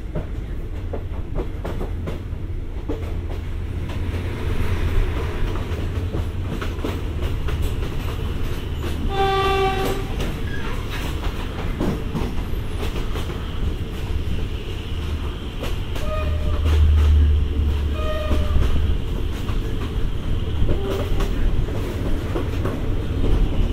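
Diesel-hauled State Railway of Thailand passenger train running, with a steady low rumble and wheel clatter, heard from inside a coach. The locomotive horn sounds one blast about nine seconds in, then two shorter, higher toots a few seconds later.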